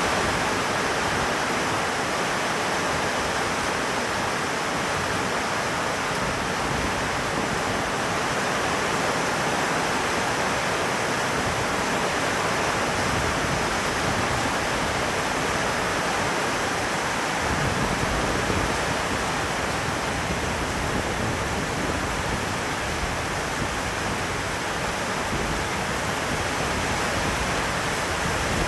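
Steady rain falling, an even, unbroken hiss of water. From a little past halfway the sound takes on a bit more low rumble.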